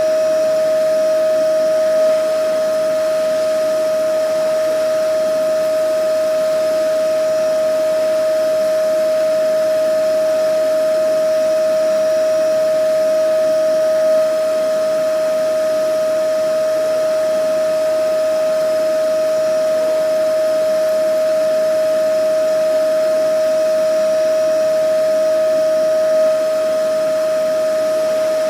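Vacuum cleaner running steadily: a constant high whine from the motor over an even rush of air, with no change in speed.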